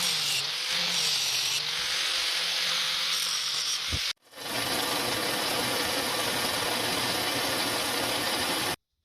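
A power tool running steadily on the steel blade with a dense hiss. The sound breaks off sharply about four seconds in, picks up again, and cuts off suddenly near the end.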